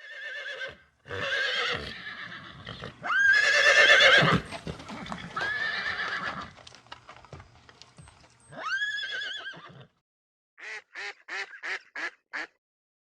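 Horse whinnying and neighing several times, with long high shrill calls. Near the end a quick run of about seven short calls begins, ducks quacking.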